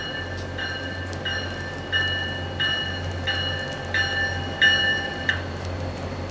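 A railroad bell ringing steadily about one and a half times a second over the low, steady rumble of a train, then stopping about five seconds in.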